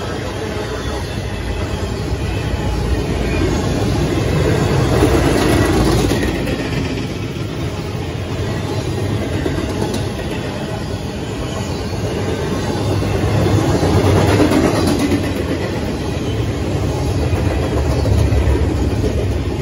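Freight train's double-stack intermodal well cars rolling past on steel wheels: a continuous rumble and clickety-clack that rises and falls in loudness, dropping away near the end as the last car goes by.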